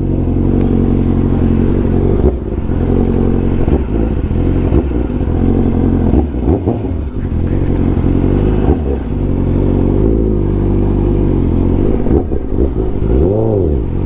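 Honda CBR1000RR-R Fireblade SP's inline-four engine running through an SC Project exhaust, its revs dropping and picking up again a few times, with a quick rise and fall in revs near the end.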